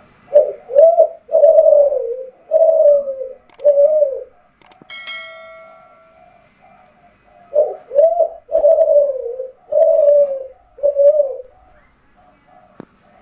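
Spotted dove of the Kelantan song strain cooing: two phrases of about five low, arched coos each, with a pause between them. A brief, fainter metallic ringing tone sounds in the pause.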